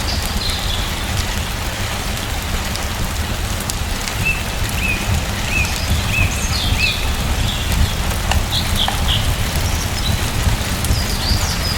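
Steady rain falling, with birds chirping over it: a run of five short, evenly spaced chirps about four seconds in, then more scattered higher calls toward the end.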